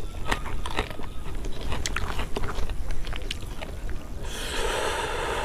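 Close-miked chewing and crunching of raw green chillies, a run of sharp crunchy clicks. Near the end a rushing hiss lasts about a second and a half.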